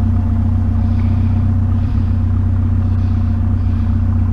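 Vehicle engine running steadily, a low even hum with no change in pitch.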